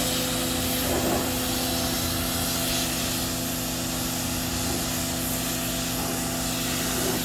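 Electric wall-mounted pressure washer running steadily: the pump motor's constant hum under the hiss of the water jet spraying.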